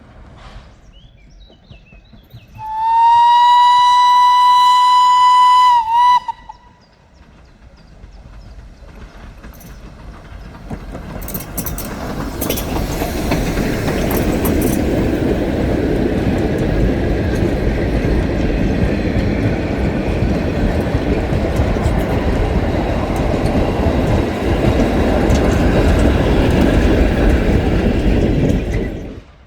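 A train whistle sounds one steady high note for about three seconds, with a brief dip in pitch as it ends. A few seconds later a train approaches, its rolling noise building and then running loud and close over the rails until it cuts off suddenly near the end.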